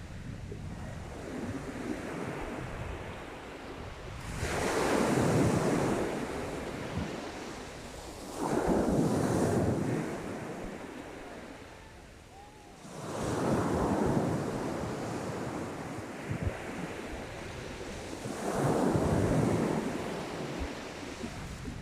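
Sea waves breaking on a shingle beach: four surges a few seconds long, roughly every four to five seconds, with wind buffeting the microphone between them.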